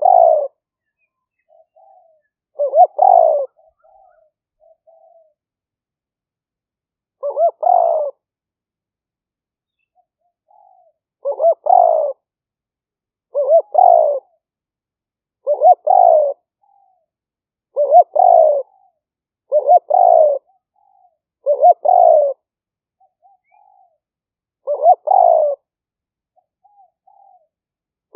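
Spotted dove cooing: about ten short repeated coo phrases, each under a second long and coming roughly every two seconds, with faint soft notes between them. It is a male dove's decoy call, recorded to lure wild spotted doves.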